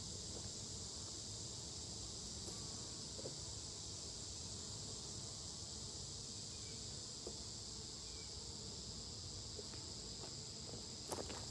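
Steady, high-pitched chorus of summer insects in two unbroken bands of pitch, with a few faint clicks near the end.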